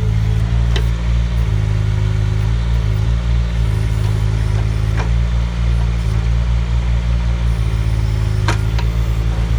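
Mini excavator engine running steadily under work, with a higher hum above it that shifts in pitch. Sharp knocks come about a second in, around the middle and near the end.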